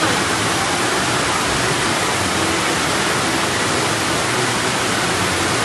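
Floodwater rushing through an overflowing ravine channel, a loud, steady, unbroken rush of water.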